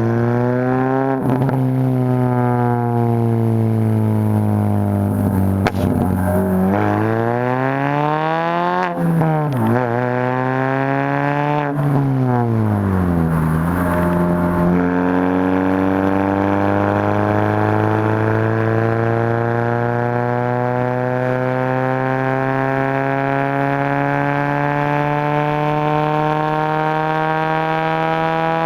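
Exhaust note of a 2004 Mini Cooper R50's 1.6-litre Tritec SOHC four-cylinder through a straight-pipe exhaust. The revs rise and fall several times, then climb slowly and steadily for the second half.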